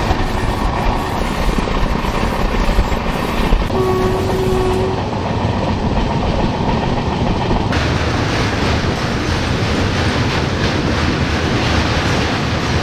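Passenger train running at speed, heard from inside the coach: a steady rumble of wheels on the rails, with one short horn blast of about a second a few seconds in. The rail noise turns abruptly brighter about two-thirds of the way through.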